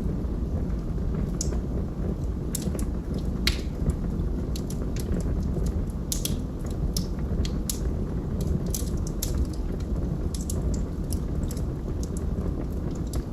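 Log fire burning: a steady low rumble of flames under sharp, irregular crackles and pops from the burning wood.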